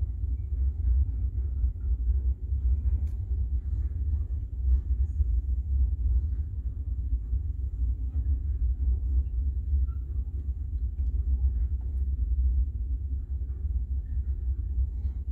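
Steady low rumble of a container freight train's wagons rolling past, with faint scattered ticks over it.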